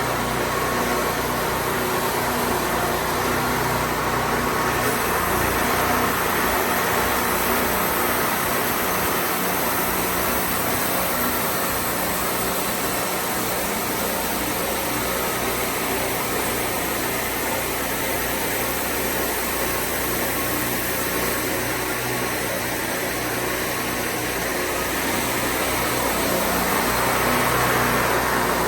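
Wood-Mizer band sawmill running steadily, its engine and blade making an even mechanical noise.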